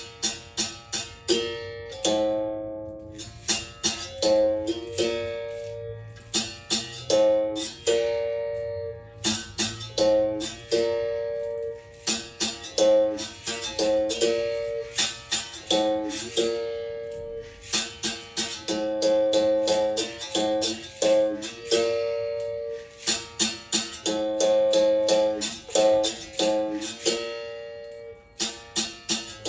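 Berimbau struck with its stick in quick runs of strokes with short pauses between them, switching back and forth between two notes a little apart in pitch.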